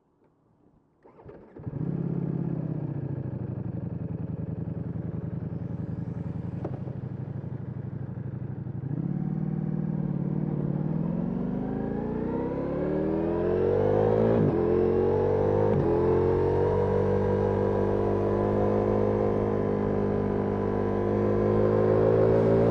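Ducati Multistrada V4S Rally's 1158 cc V4 engine with an Akrapovic exhaust starts up about a second in and idles, then pulls away with a rising note, two quick upshifts, and settles into a steady run.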